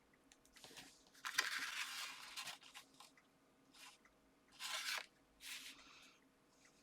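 Paper and card rustling and crinkling as pieces are handled and pressed down onto a card, in a few short bursts with the longest about a second in.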